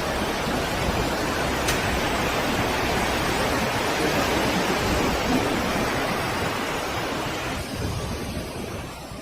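Typhoon storm noise: a dense, steady rush of wind and water that starts suddenly and eases off near the end.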